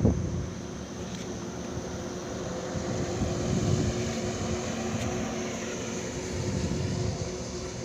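Truck engine running with a steady drone, swelling a little twice.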